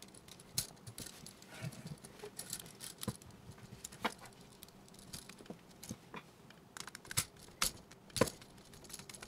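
Faint clicks and taps of a plastic duplex electrical outlet and its wires being handled as a wire is hooked onto the outlet's silver terminal screw, with a few sharper clicks scattered through.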